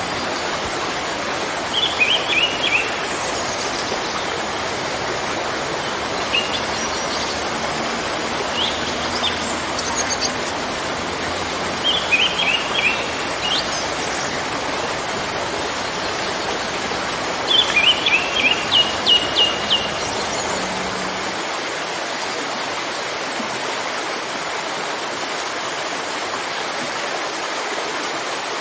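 Waterfall rushing steadily, with a songbird chirping in short runs of high notes several times, the longest run about two-thirds through. The deepest part of the rush drops away about three-quarters of the way in.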